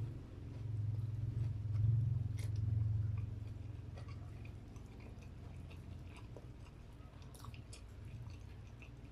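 A person chewing crispy fried chicken and rice close to the microphone, with soft crunches and small wet mouth clicks. The chewing is loudest in the first three seconds and then goes on more quietly.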